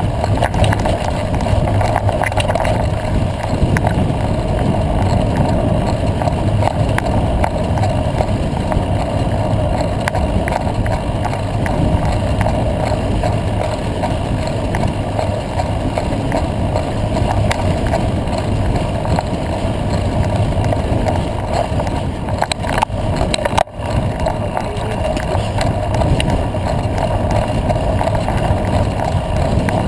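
Off-road motorcycle running steadily at speed on a dirt track, heard from onboard with wind rushing over the microphone. The sound dips for an instant about three-quarters of the way through.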